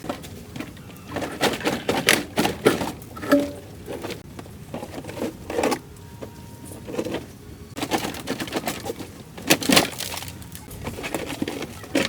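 Irregular knocks, clatters and scrapes of tools and parts being handled during hands-on restoration work on an old car, in clusters of sharp hits with quieter rustling between them.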